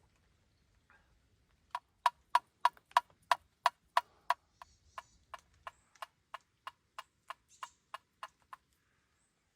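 A steady series of about twenty sharp clicks or knocks, about three a second, loud at first and growing fainter before stopping.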